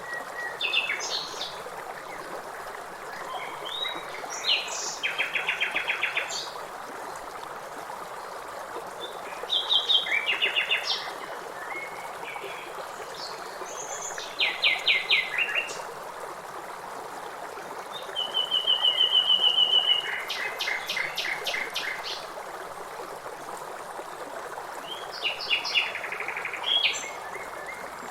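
A songbird singing short phrases about every five seconds, several ending in a fast run of repeated notes, over the steady rush of river water.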